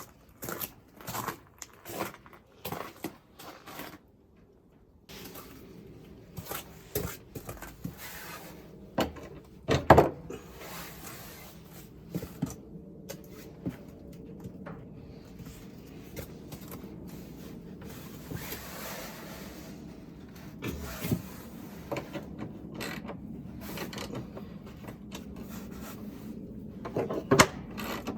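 Irregular knocks, clunks and scrapes of a garden gate and its hinges being handled and worked loose. The loudest knock comes about ten seconds in, and a steady low background noise runs under the later knocks.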